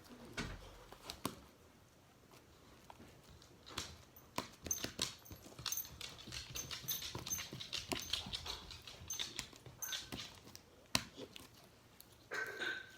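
Pet dog whining among many small clicks and crackles, with a longer whine near the end.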